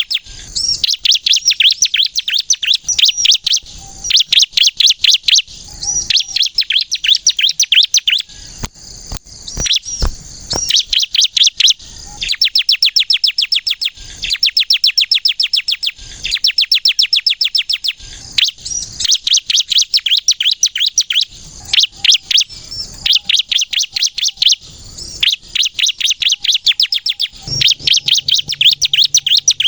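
Bar-winged prinia (ciblek kristal) singing persistently: loud one-to-two-second bursts of rapid, sharp high notes, repeated with short pauses.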